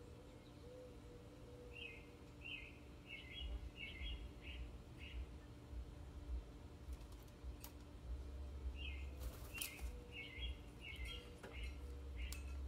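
A small bird chirping in two runs of short, quick notes, about six or seven chirps in each, a few seconds apart, over a steady low rumble.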